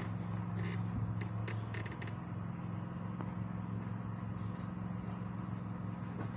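A steady low mechanical hum with a few light clicks and taps in the first two seconds.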